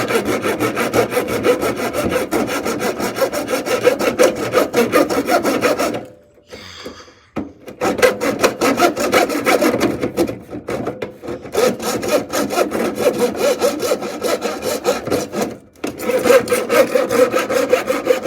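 Hand saw cutting into a dehumidifier, in fast back-and-forth strokes, stopping for about a second and a half a third of the way through, then resuming with short breaks.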